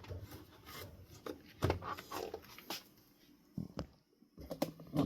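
Cloth rubbing and wiping a ceiling fan's faceplate to polish off smudges: irregular scrubbing strokes, with a few light knocks in the second half.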